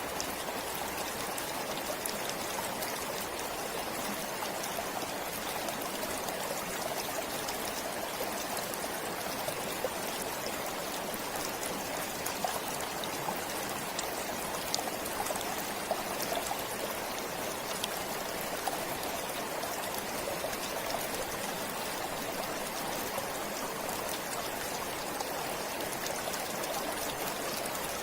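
Stream of water flowing steadily, an even rushing babble with small trickling splashes.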